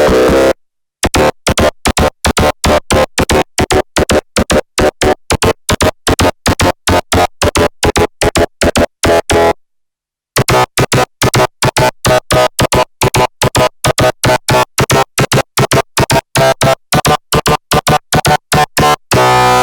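Arturia MicroBrute analog synthesizer playing a bright sawtooth bass patch in a rapid run of short, staccato notes. There is a brief pause about halfway, and one longer held note near the end.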